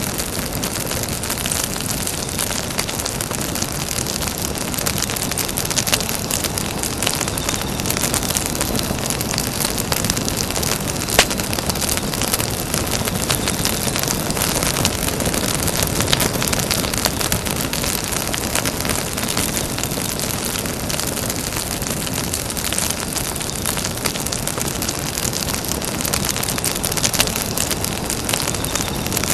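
Campfire burning: a steady hiss of flames with many small crackles and pops throughout, one louder pop about eleven seconds in.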